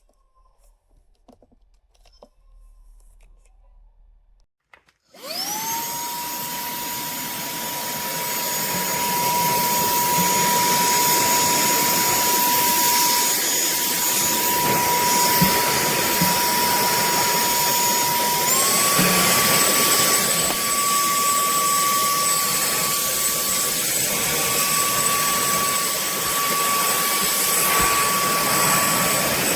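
A cordless handheld vacuum cleaner's motor switches on about five seconds in after a few faint clicks, whining quickly up to a steady high pitch. About two-thirds of the way through, its pitch steps up to a higher steady whine and it runs on.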